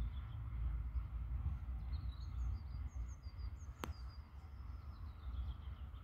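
Birds chirping in a quick series of short, high calls from about two seconds in, over a steady low rumble. One sharp click just before the four-second mark.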